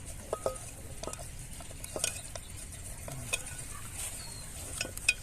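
Hands massaging a spice masala into whole raw quail: soft wet squishing and mixing, with scattered light clicks.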